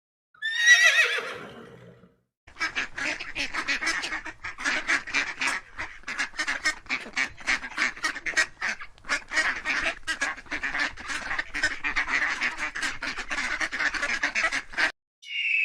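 A horse's whinny, falling in pitch and dying away within two seconds. After a short gap, a flock of domestic ducks quacks continuously for about twelve seconds, many birds calling over one another in rapid overlapping calls.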